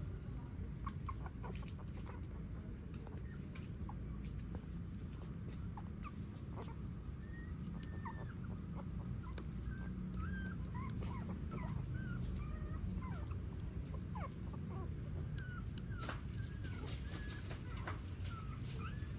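Newborn puppies squeaking and whimpering in many short, high calls that come thicker from about a third of the way in, with scattered light clicks over a steady low hum.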